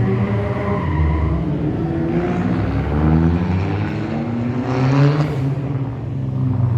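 Rally car engine revving hard, its pitch rising and falling again and again, loudest about five seconds in.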